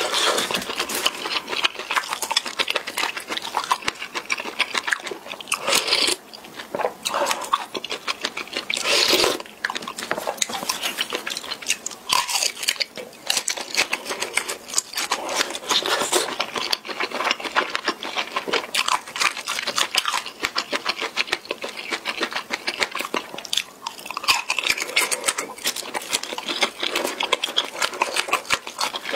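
Close-miked mouth sounds of chewing a mouthful of spicy instant ramen noodles: a fast, steady run of wet clicks.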